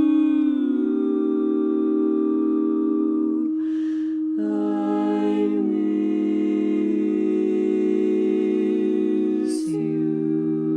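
An a cappella vocal group holding long sustained chords, humming or on drawn-out vowels, moving to a new chord several times, with a short hissy consonant or breath break about four seconds in and again near the end.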